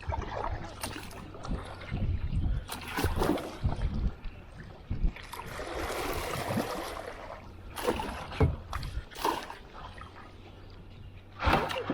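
Kayak paddling on a creek: paddle strokes splashing and sloshing in the water at an uneven pace, with a few sharp knocks and a longer swell of rushing water midway.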